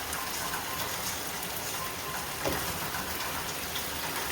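Chicken in yogurt with vegetables sizzling in oil in a pan: a steady frying hiss with small scattered crackles.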